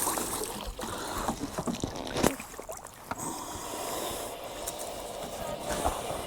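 Wind and water noise aboard a small fishing boat at sea, with scattered knocks and clicks of handling on board; one sharper knock a little over two seconds in.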